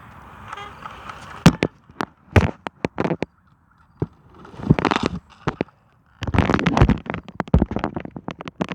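Bottles tied to a bicycle's wheels being slapped by the turning spokes: a loud, irregular cracking rattle that comes in spurts. This is the homemade trick to make a bicycle sound like a dirt bike.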